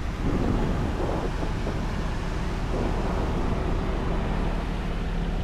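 A car engine running steadily at idle, a low hum, louder and rougher during the first few seconds.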